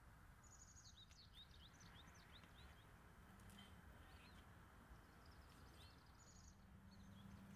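Very faint ambient background with a few clusters of short, high bird chirps.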